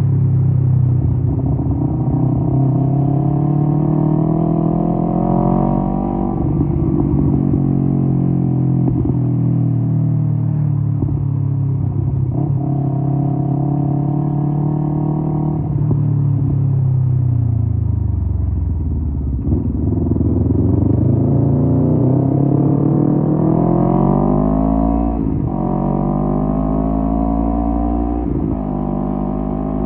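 Kawasaki Z250 parallel-twin engine through a SeaPro aftermarket muffler, under way on the road. The pitch climbs under acceleration, with a sharp drop at an upshift about six seconds in, then holds steady while cruising. It falls away as the bike slows about two-thirds of the way through, then climbs again through two more quick upshifts near the end.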